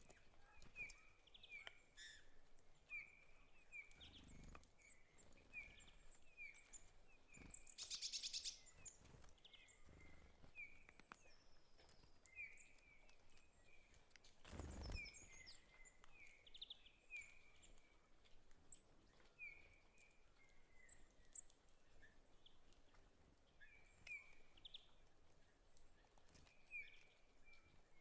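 Faint small-bird chirping, short chirps about once a second, with the quiet rasp and rustle of scissors cutting and peeling packing tape from a cardboard parcel, loudest about eight seconds in and again around the middle.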